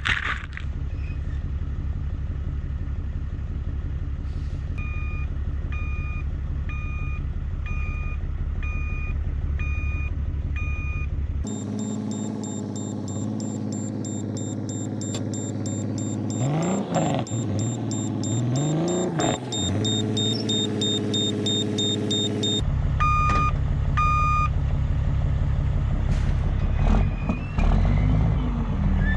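A Kenworth W900's Caterpillar C13 diesel runs as the dump truck backs up, with a reversing alarm beeping just over once a second for several seconds. Partway through, the sound turns brighter and steadier, with the engine pitch rising and falling as if revved. Then two more reversing beeps come.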